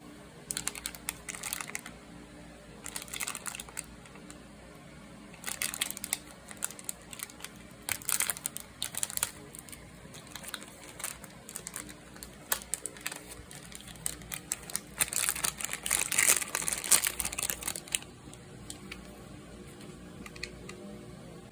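Plastic snack packaging crinkling in irregular bursts as it is handled and opened. The longest and loudest spell comes about two-thirds of the way through.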